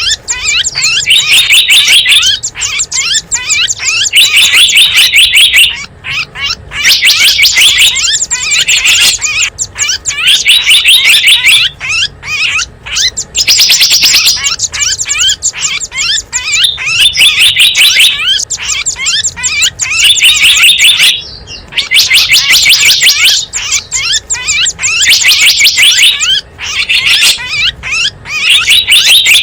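Bird-lure recording of small wild songbirds chirping: loud, rapid high-pitched chirps and trills in repeated runs of one to two seconds with brief gaps between them.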